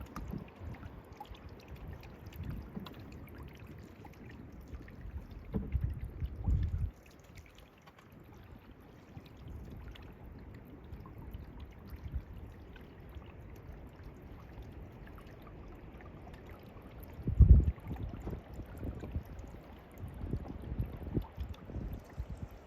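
Water trickling and splashing around a paddled canoe. There are low rumbling thumps about six seconds in, and a louder one about seventeen seconds in.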